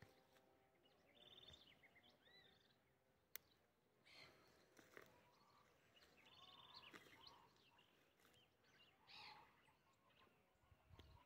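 Faint birds chirping and trilling against a near-silent rural background, with a single sharp click a little over three seconds in.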